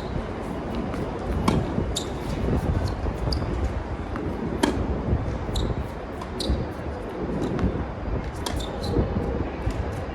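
Tennis rally: a string of sharp pops from racket strings striking the ball and the ball bouncing on the hard court, every second or two, over heavy wind noise on the microphone.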